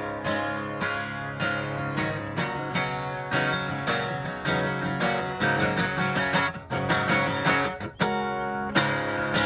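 Country song's instrumental break: acoustic guitar strumming in a steady rhythm, with no singing.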